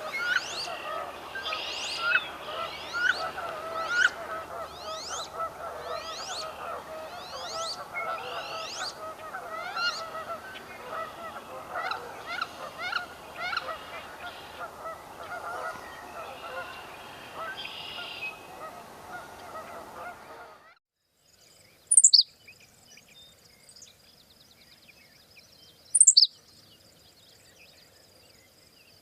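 A dense chorus of many birds calling over one another for about twenty seconds, then cutting off. After that, a single short, high, sharp bird call sounds twice, about four seconds apart, over a faint steady high-pitched hum.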